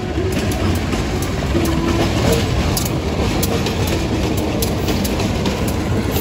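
A KAI CC201 diesel-electric locomotive passing close by at the head of a passenger train: a steady engine rumble, with sharp clicks of the wheels over the rail joints.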